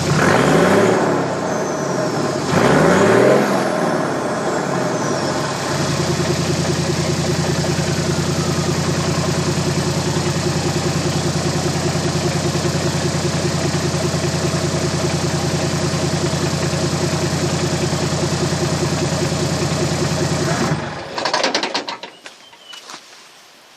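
Toyota Land Cruiser 100 series engine through a Scott's Rods exhaust, blipped twice in the first few seconds, then settling to a steady idle. The engine sound stops about 21 seconds in, leaving a few small noises.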